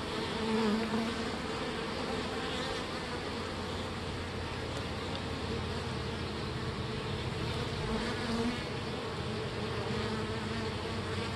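Steady buzzing of a honey bee swarm in an open nuc box, many bees flying and humming close to the microphone.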